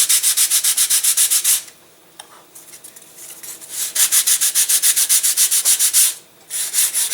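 Sandpaper rubbed quickly back and forth over the edge of a balsa flaperon, at about eight strokes a second. It comes in bouts: it stops about a second and a half in, then picks up again about halfway through, with a short break near the end.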